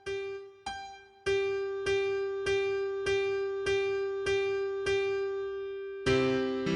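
Piano playing a single note, G, over and over in an even pulse of under two strikes a second. It is soft at first and louder from about a second in, and near the end lower notes join in as chords.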